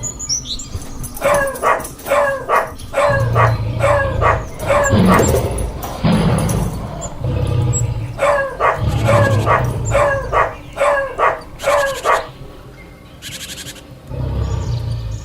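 African wild dogs giving rapid series of short, high yelping calls, about three a second, in two bouts, while mobbing a lion. A low rumble comes and goes beneath the calls.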